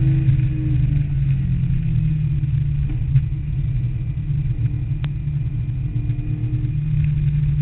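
Air-cooled 3.2-litre flat-six of a 1974 Porsche 911, heard from inside the cabin at speed. The engine note drops in the first second, runs lower and quieter through a turn, and rises again near the end as it pulls out.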